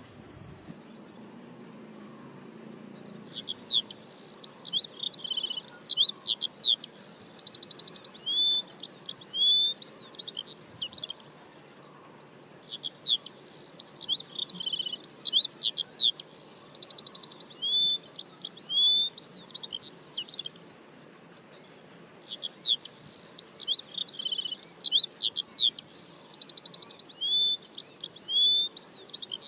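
Songbird singing long, varied bouts of whistles, trills and chirps, three near-identical bouts of about eight seconds each separated by short pauses, over a faint steady background hiss.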